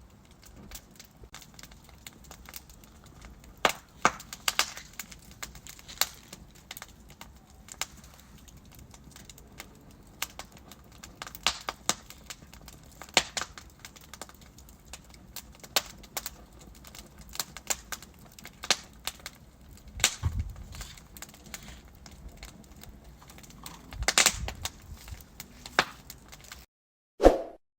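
Wood fire crackling: irregular sharp pops and snaps from burning logs over a faint hiss. Near the end the crackling cuts off suddenly and a single short tone sounds.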